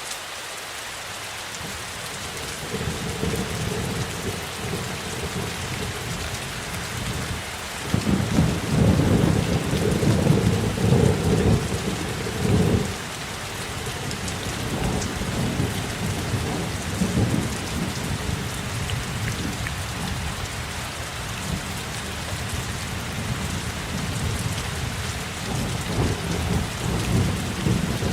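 Steady rain falling, with a low thunder rumble that builds a few seconds in, is loudest in the middle, then rolls on more softly.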